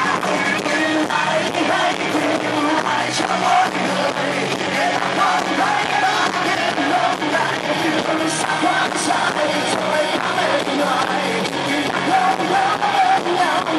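Rock band playing live, a lead vocal singing over the full band, loud and continuous.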